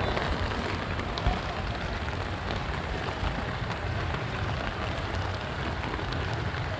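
Steady rain falling, a continuous hiss with fine pattering drops.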